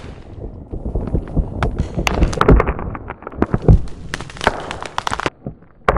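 Sound-designed dry bones rattling and cracking together: an irregular run of sharp cracks and clicks with heavy thuds, loudest about two and a half and three and a half seconds in.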